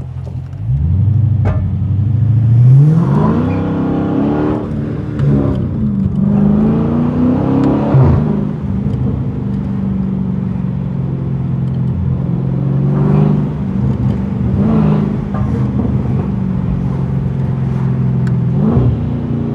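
Straight-piped 6.4-litre HEMI V8 of a 2020 Dodge Charger Scat Pack accelerating hard, its pitch climbing twice and falling back, with a sudden drop about eight seconds in. It then settles into a steady drone with a few brief rises in revs near the end.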